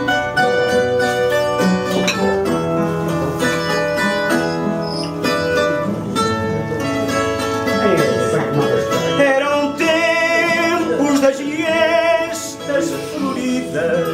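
Portuguese guitar and fado viola (classical guitar) playing the instrumental introduction to a fado: bright plucked melody over strummed chords, with wavering vibrato notes about ten seconds in.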